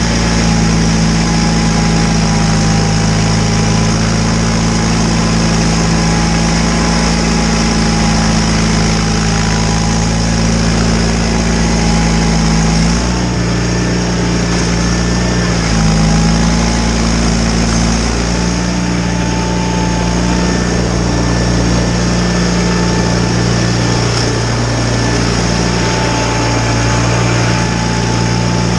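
John Deere 318 garden tractor's Onan two-cylinder engine running steadily while driving a Model 49 snowblower through snow, with a fainter steady whine above it. The engine note shifts about halfway through and again a few seconds later as the load changes.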